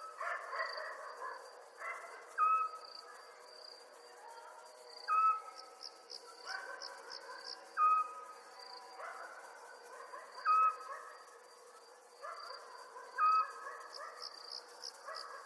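Night chorus of chirping crickets in short pulsed trains. Over it, a single short whistled note from a night bird repeats about every two and a half seconds, five times, and is the loudest sound.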